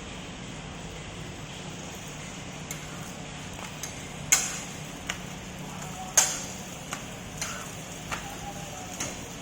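A metal spatula knocking and scraping on a griddle while a parotta cooks on it: about nine sharp clicks over a steady low hum, the two loudest about four and six seconds in.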